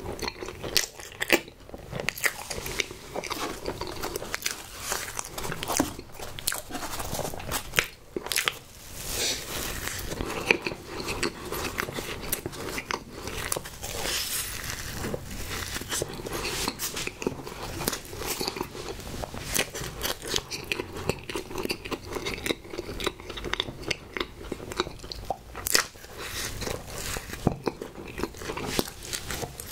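Close-miked chewing and biting of strawberry snowball cakes, soft chocolate sponge under a pink coating, a continuous run of small mouth clicks and smacks.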